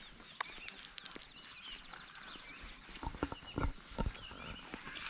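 Steady high-pitched trill of insects with scattered bird chirps, and several heavy footsteps on the path about three seconds in.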